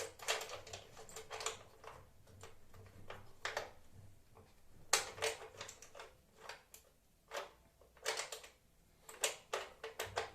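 Irregular clicks and knocks of Ferm PRA1011 router table parts being handled and fitted together, a piece being pushed against its brackets and slot.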